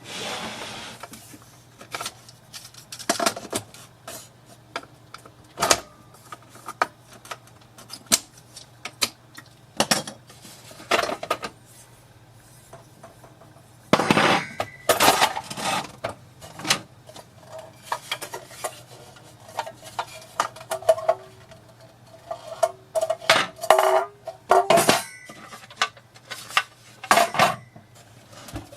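Irregular clicks, knocks and light clinks of hard parts being handled and set down, over a faint steady low hum.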